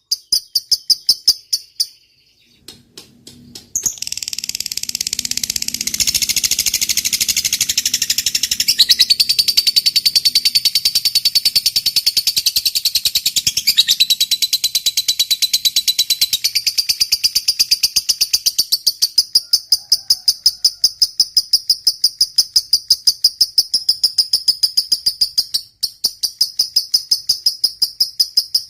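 Lovebird singing its long, very rapid, high-pitched chattering trill (the 'ngekek panjang' that keepers prize), many shrill notes a second. It breaks off briefly about two seconds in, returns louder and denser, and dips once more near the end.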